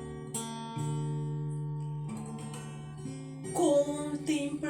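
Acoustic guitar playing sustained chords as the accompaniment to a gospel song, with a singing voice coming in near the end.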